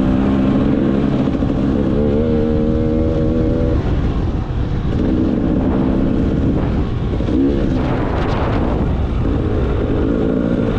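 Enduro motorcycle engine running under way, its pitch climbing about two seconds in as it revs, easing off near four seconds, then holding steady.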